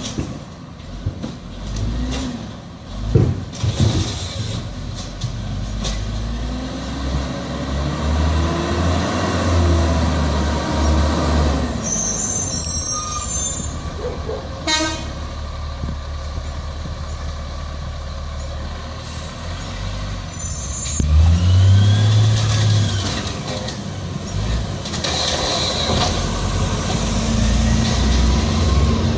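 Garbage truck diesel-style engine running, with short air-brake hisses and one sharp bang midway; the engine revs up about two-thirds of the way through.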